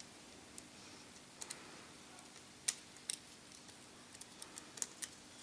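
Scattered light clicks and taps as an iPhone 4's screen assembly and small parts are handled during reassembly. The sharpest click comes a little past halfway.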